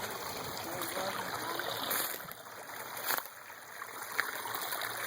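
Small spring-fed stream flowing and trickling, a steady rush of water, with two brief clicks about two and three seconds in.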